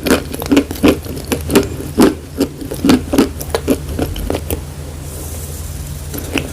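Chalk being chewed close to the microphone: a quick, irregular run of dry crunches, about two to three a second, that stops about four and a half seconds in.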